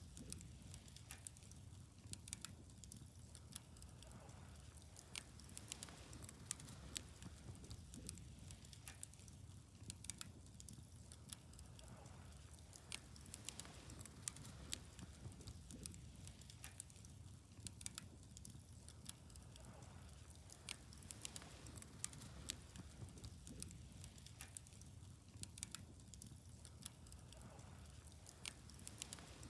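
Wood fire burning, crackling with frequent irregular sharp snaps and pops over a faint low rumble.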